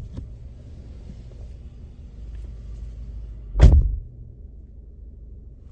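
A car door shutting with one heavy thump about three and a half seconds in, over a low, steady rumble.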